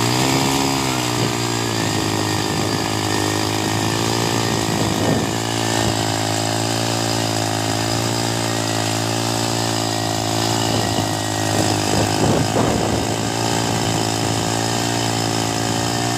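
Small petrol engine running at a steady speed, its pitch wavering slightly, with a few short knocks about halfway through.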